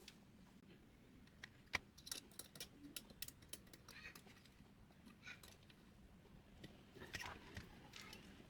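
Faint, scattered light clicks and taps of small printer parts being handled, with a cluster of quick knocks from about a second and a half to four seconds in and a few more near the end.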